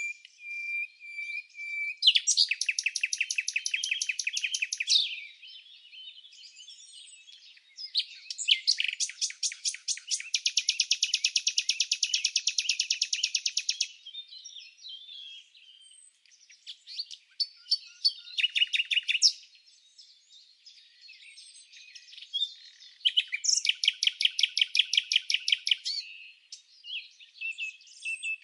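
A songbird singing long, rapid trills of fast repeated notes: four trilled phrases, each a few seconds long, with shorter chirps in the pauses between them.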